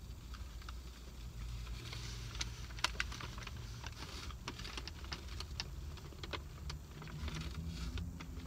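Mouth-close chewing of a crispy chicken taco: irregular crunchy clicks, thickest in the middle of the stretch, over a low steady hum.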